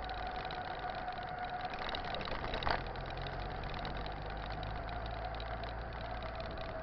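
Mountain bike rolling along: a steady hum with a faint held tone that drifts slowly lower. One sharp knock comes nearly three seconds in.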